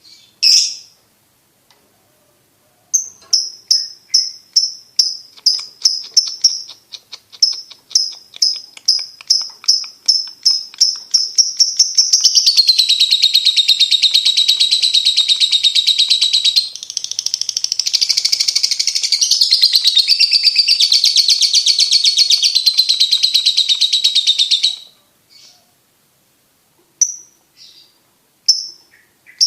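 Lovebird singing: a single call, then a run of sharp high chirps that quicken and merge into one long unbroken trill of about twelve seconds, which stops suddenly; a few separate chirps follow near the end.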